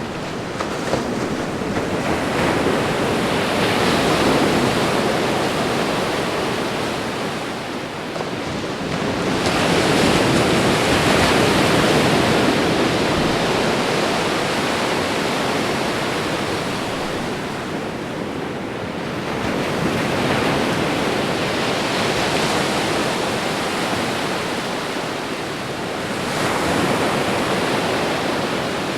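Ocean surf: waves breaking and washing in, a continuous rushing hiss that swells four times, roughly every seven to nine seconds.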